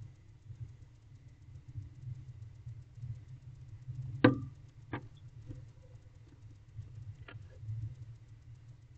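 A few sharp knocks and scrapes inside a wooden barn owl nest box over a steady low rumble. The loudest knock comes about four seconds in, with smaller ones just after and near the end.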